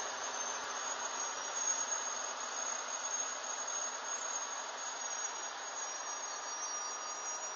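Regional passenger train passing close by: a steady rushing noise of wheels rolling on the rails, with a faint high-pitched whine.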